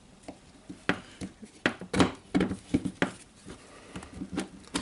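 Irregular light clicks and knocks of the circular saw's motor parts being handled as the armature is worked out of the motor housing.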